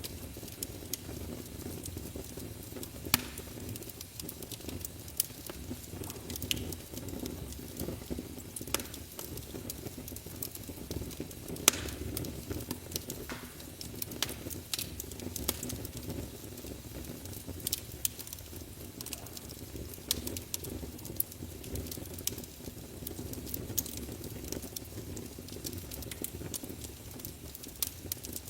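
Wood fire burning in a fireplace: a steady low rush with irregular sharp crackles and pops, the loudest pop a little before the middle.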